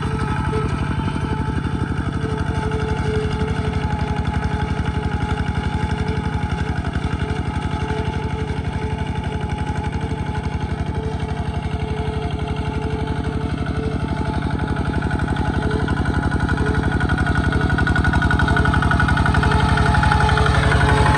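Small Kubota tractor's engine running steadily, growing slightly louder near the end.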